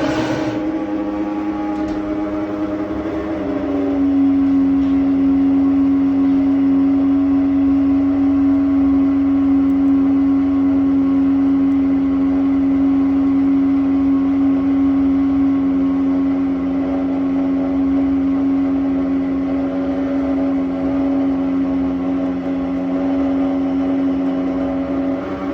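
Baxi Eco5 Compact 24F gas boiler humming loudly with a steady drone. About four seconds in the drone steps down slightly in pitch and gets louder. It is a hum the boiler gives off from time to time while heating its indirect hot-water cylinder, and it persists although the system and cylinder have been flushed.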